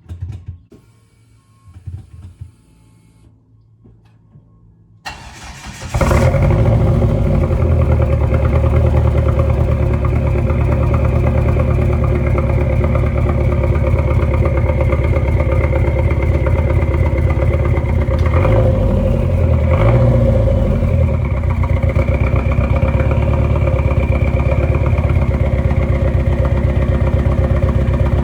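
Dodge SRT-4's turbocharged 2.4-litre four-cylinder engine cranking briefly and catching about five seconds in, after a few faint knocks, then idling steadily. Around two-thirds of the way through there are a couple of quick throttle blips.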